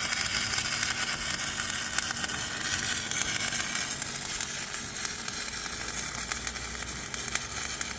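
Electric arc welding on the backhoe's steel: a steady crackling sizzle of the arc over a low hum.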